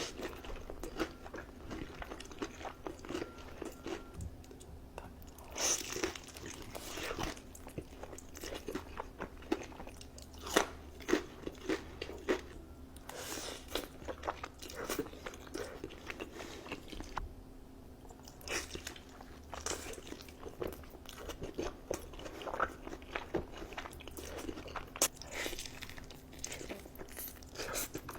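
Close-miked eating: irregular crunching bites and chewing of crispy food, with a few louder crunches scattered through.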